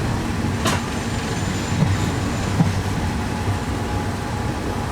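Steady low rumble of a diesel train's engine running, with a sharp click just under a second in.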